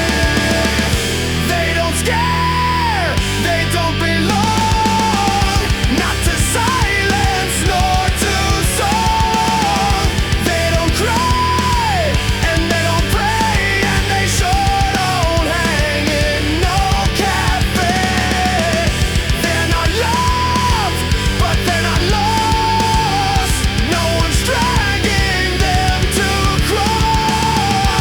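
Loud heavy rock music: a dense, driving beat under a sustained melody line that holds notes and bends between them.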